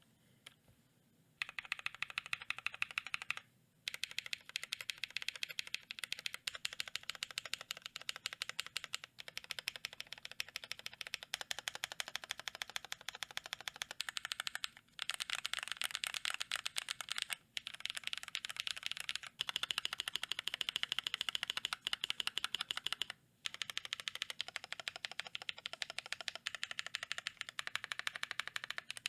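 Fast typing on a GMMK Pro mechanical keyboard with lubed Glorious Panda tactile switches in a polycarbonate plate and GMK keycaps: a dense run of clacky keystrokes. It starts about a second and a half in and stops briefly a few times.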